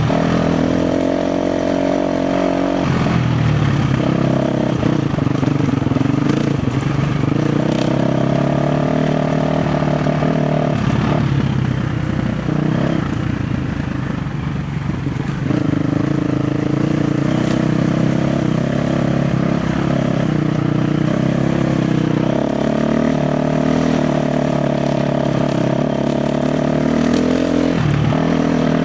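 KTM 350 XC-F dirt bike's four-stroke single-cylinder engine running under changing throttle on rough terrain. The engine note holds steady for long stretches and turns choppy, with the throttle working on and off, for a few seconds near the start and again in the middle.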